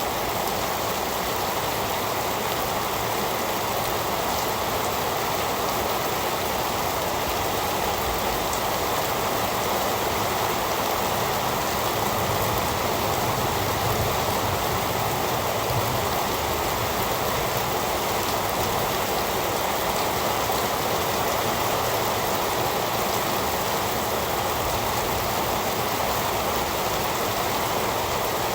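Heavy rain falling steadily: an even, unbroken hiss with the patter of drops, and no change in strength.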